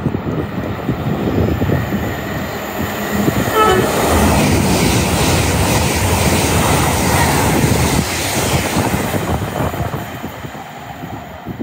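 Great Western Railway Intercity Express Train (Class 800-series) passing through the station at speed: a rush of wheels and air that builds about four seconds in, stays loud for several seconds, then eases off near the end.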